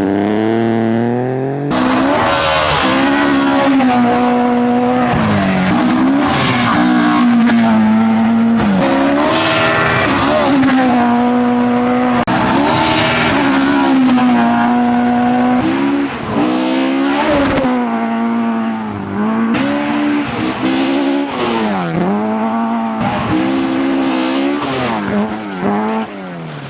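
Rally car engine revved hard, its pitch climbing and dropping again and again as it is driven flat out and shifts through the gears.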